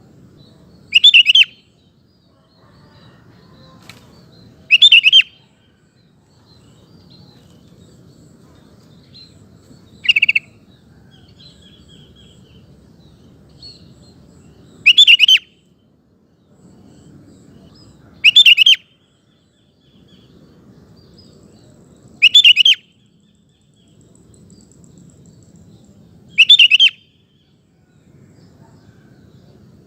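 Sooty-headed bulbul (kutilang) singing short, loud, bubbly phrases, one about every four seconds, eight times in all.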